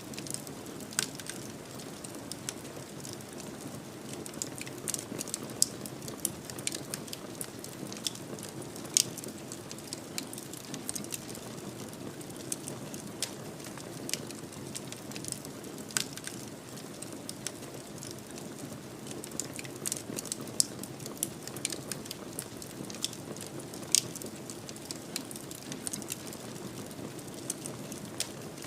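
Fireplace fire crackling: a steady low rush of flames under frequent small ticks, with a few louder pops every few seconds.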